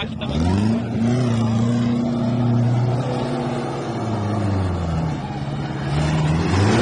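Chevrolet Opala's four-cylinder engine revving hard: its pitch climbs steeply just after the start, holds high, sags around five seconds in and climbs again near the end.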